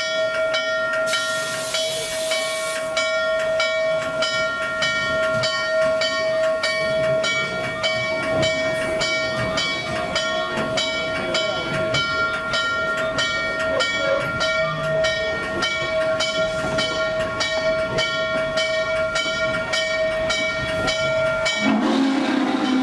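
Norfolk & Western 611 steam locomotive standing with steam up. Steam hisses under a steady high whine of several tones and a regular pulsing about twice a second, with a louder burst of hiss about a second in. Just before the end the whine stops and a lower steady tone takes over.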